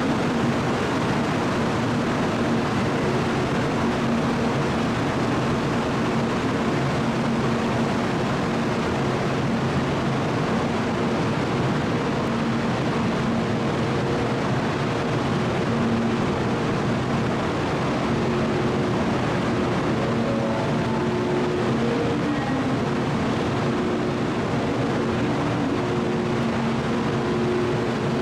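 Steady, unbroken running noise of a Kyushu Shinkansen train, with faint wavering tones drifting through it.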